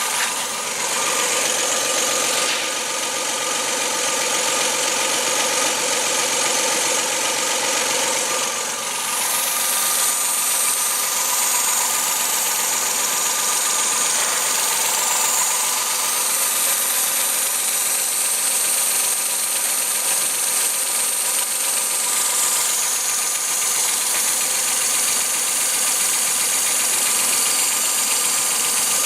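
Suzuki K6A 660 cc three-cylinder engine running steadily at idle, its sound turning somewhat brighter about nine seconds in.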